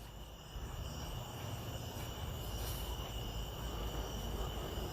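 Crickets chirring steadily in the background over a faint low rumble.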